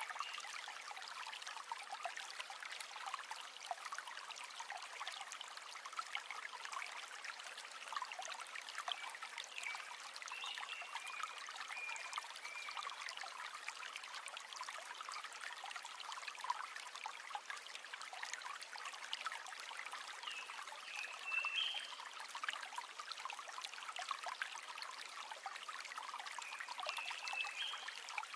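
River water flowing in a steady, trickling, babbling rush full of small splashes, with no low rumble. A few brief high chirps rise over it now and then.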